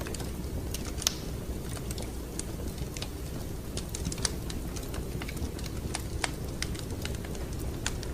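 Wood fire crackling in a fireplace: irregular sharp pops and snaps over a steady low rumble of burning, with a few louder pops about one, four and six seconds in.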